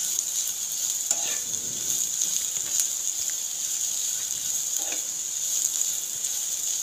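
Sliced vegetables stir-frying in oil in a non-stick pan, sizzling steadily, with a few soft spatula scrapes about a second in and again near five seconds.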